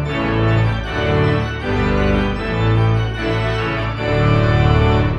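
Music: an organ playing held chords over a bass line, the chords changing every second or so.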